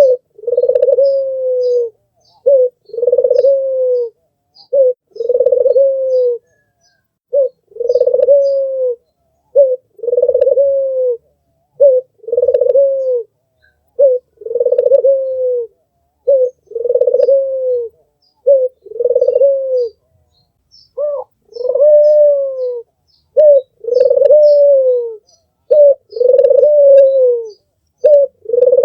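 Albino puter (Barbary dove) cooing over and over: each call is a short note followed by a longer coo that falls slightly at its end, about one call every two seconds. Faint high chirps of small birds in the background.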